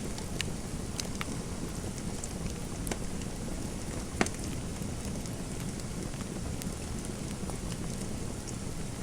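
Fireplace fire crackling: a steady low rush with scattered sharp pops, the loudest about four seconds in.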